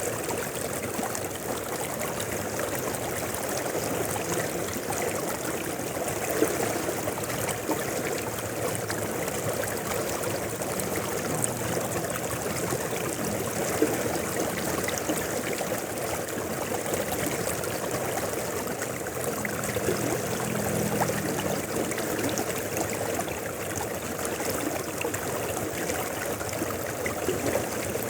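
River water flowing steadily over rocks, a continuous rushing and trickling with no break.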